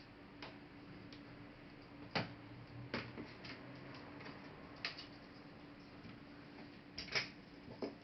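Sharp clicks and taps from a laptop being taken apart by hand, plastic and metal parts knocking as they are handled, about five times at irregular intervals with the loudest near the end, over a faint steady hum.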